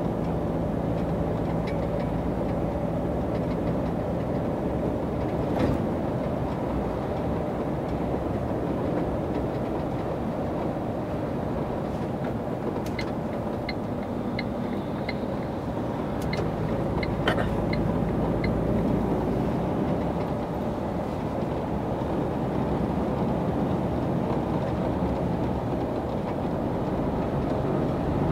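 Lorry cab interior on the move: steady engine drone and road rumble, with a few faint clicks and ticks around the middle.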